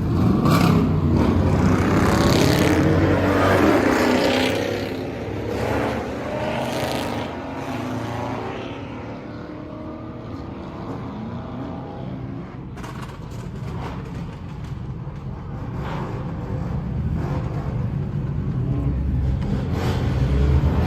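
Car engines revving at a street car meet, loudest over the first few seconds, then quieter and building again toward the end.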